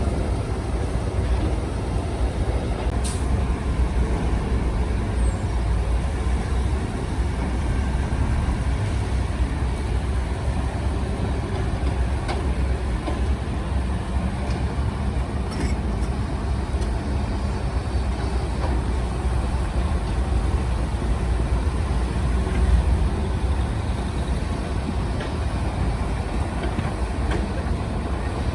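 Heavy diesel earthmoving machinery running steadily: a continuous low engine rumble, with a few faint clicks.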